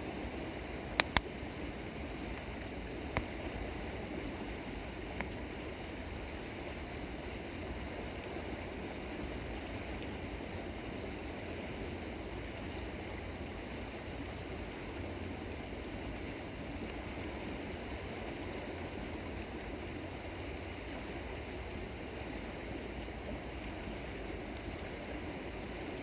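River water running steadily. In the first few seconds a wood campfire gives a few sharp pops, two close together about a second in.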